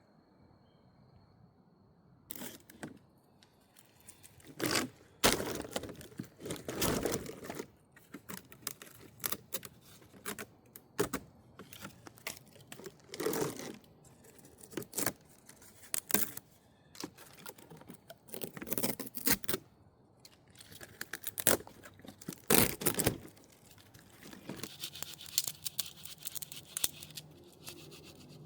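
Irregular tearing and crinkling: a run of short rips and rustles starting about two seconds in, with the loudest tears scattered through the middle and later part.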